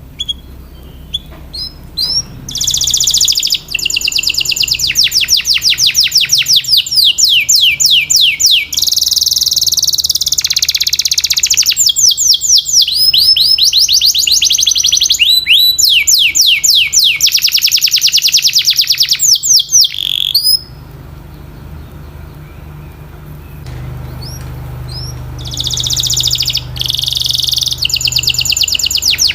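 Canary singing in long fast trills: rolls of rapidly repeated high falling notes, changing from one roll to the next. It breaks off for a few seconds about two-thirds of the way in, then starts again.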